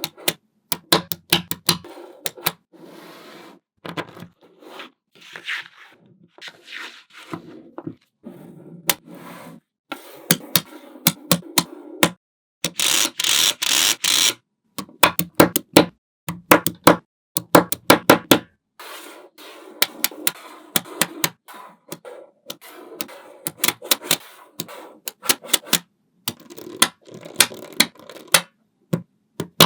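Small magnetic balls clicking sharply as they snap onto one another, in quick runs of clicks with brief pauses. A louder stretch of rattling noise lasts about two seconds near the middle.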